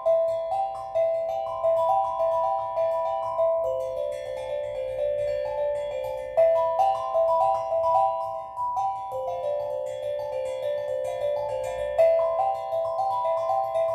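Steel drum playing a flowing, repeating pattern of ringing notes, several a second, over a faint low hum.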